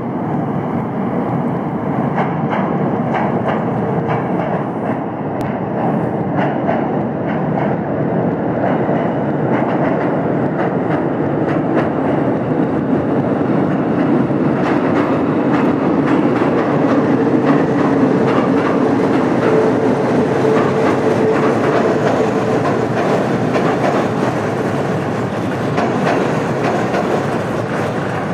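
Train running on the rails: a steady rumble with the wheels clattering over rail joints, swelling a little past the middle.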